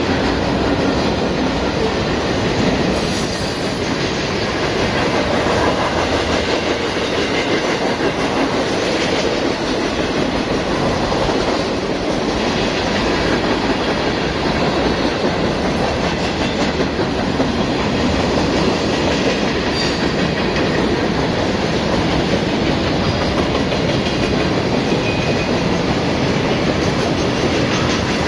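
Freight train rolling past: a steady, loud noise of the cars' wheels on the rails, with a brief high-pitched squeal about three seconds in.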